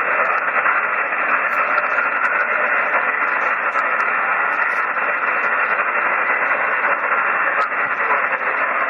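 Static hiss from an HF amateur radio receiver tuned to a single-sideband net frequency while the weak far station is awaited. The noise is steady, with a few faint crackles, and is cut off sharply above about 3 kHz by the receiver's sideband filter.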